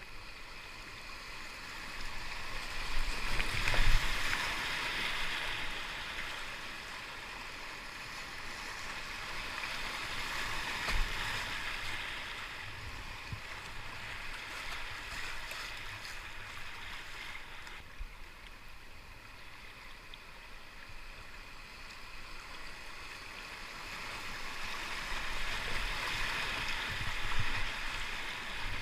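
River water rushing around a whitewater kayak running rapids, swelling louder twice, a few seconds in and again near the end. A couple of sharp knocks stand out, about four and eleven seconds in.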